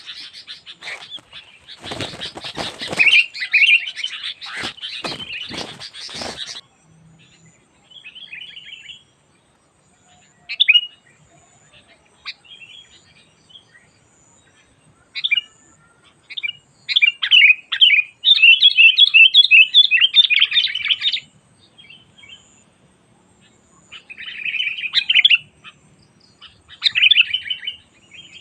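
Sooty-headed bulbul (kutilang) singing in bursts of quick, chattering, warbled phrases with short pauses between them. For about the first six seconds, a run of loud clicks and crackle sounds under the song.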